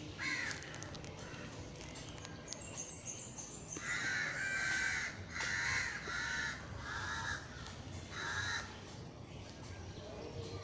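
A bird calling: one short call at the start, then a run of about five louder calls between four and nine seconds in, with faint high chirps shortly before them.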